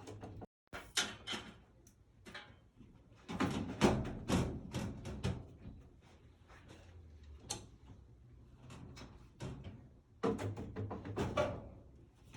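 Irregular knocks, taps and clatter of tools and parts being handled during a furnace replacement, loudest in two bunches, about four seconds in and again near the end.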